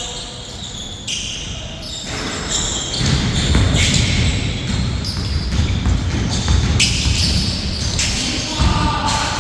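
A basketball bouncing on a court with players' feet moving, a run of irregular thuds that grows busier and louder about three seconds in.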